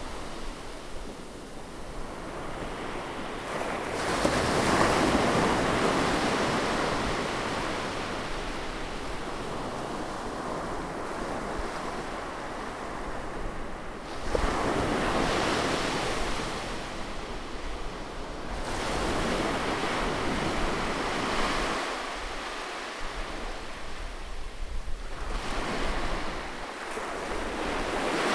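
Sea waves breaking on a beach: four swells of surf that rise and fall, with a quieter wash between them.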